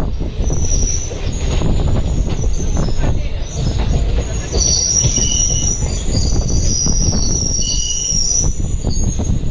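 Passenger train running on the rails: a heavy low rumble with irregular knocks and rattles, and high-pitched wheel squeal that comes in more strongly over the second half.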